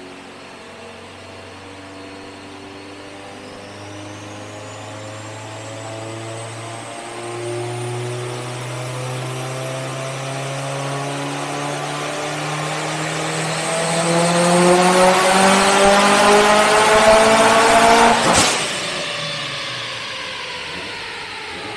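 Built Subaru STi's turbocharged flat-four on a chassis dyno, making a full-throttle pull: the engine note climbs steadily and gets louder for about eighteen seconds, with a high whine rising along with it. Near the end a single sharp crack marks the throttle lift, and the revs fall away as the rollers coast down.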